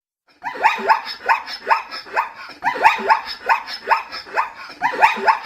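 Zebra calling: a rapid series of short, barking yelps, each falling in pitch, about three a second, in three bouts of roughly two seconds each. The calls start about half a second in.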